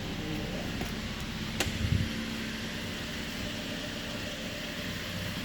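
2016 Suzuki Ignis 1.2-litre four-cylinder petrol engine idling steadily during an engine test. A sharp click and a short low thump come about a second and a half in.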